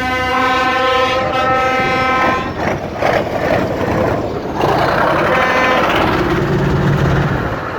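A steady horn toot that breaks off about two seconds in, followed by the rumble and rushing noise of passing vehicles.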